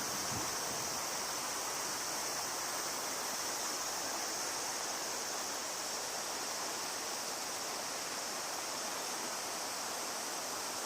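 Steady rush of flowing river water, with a constant high-pitched hiss over it.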